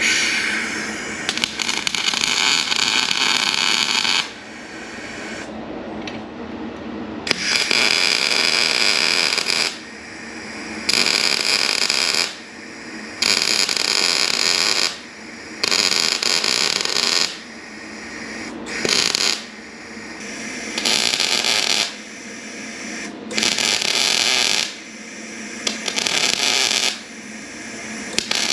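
Electric welder laying weld on a steel vehicle chassis bracket in a series of crackling bursts. The first burst runs about four seconds, then about nine shorter runs of one to two seconds follow with brief pauses between them, as in stitch or tack welding.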